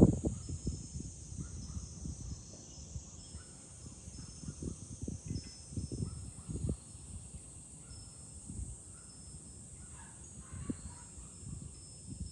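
Cicadas shrilling steadily, a constant high hiss, with gusts of wind buffeting the microphone in low rumbles that are strongest at the start.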